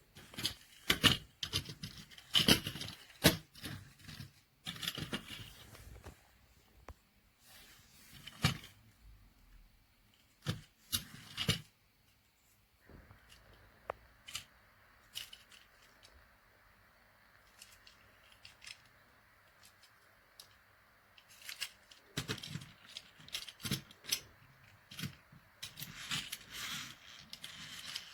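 Objects being handled up close: irregular clicks, scrapes and rustling in short bursts, which thin out to a faint hiss with the odd click in the middle stretch, then pick up again near the end.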